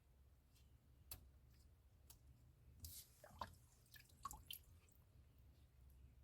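Near silence broken by faint water drips and small wet squishing sounds, clustered about three to four and a half seconds in, as soaked paper pulp is handled in water.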